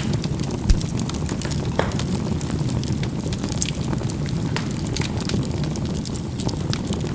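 Charcoal burning in a fireplace: a steady low rumble of the fire under frequent small crackles and pops, with a low thump about a second in and a sharper crack just after.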